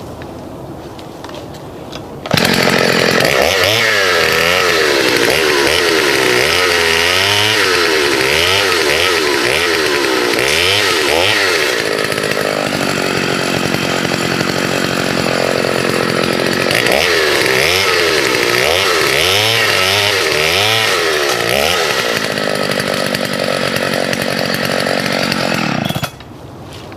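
Partner S55 two-stroke chainsaw running at high revs, its pitch rising and falling again and again as it cuts through branches. It starts suddenly a couple of seconds in and cuts off suddenly near the end.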